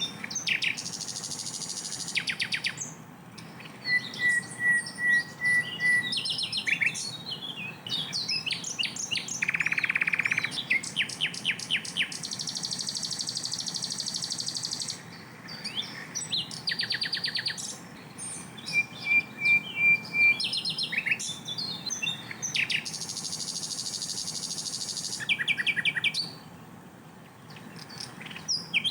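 Sikatan londo flycatcher singing in loud, rapid-fire phrases: fast rattling trills of repeated high notes and dense buzzy stretches, broken by short runs of clear whistled notes and brief pauses between phrases.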